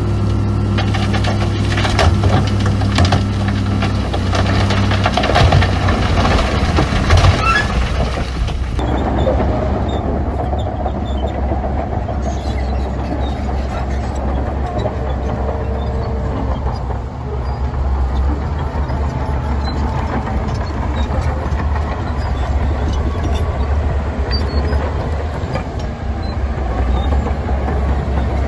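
Heavy diesel construction machinery running, with clanking and knocks in the first few seconds. A steady low engine rumble follows an abrupt change about nine seconds in.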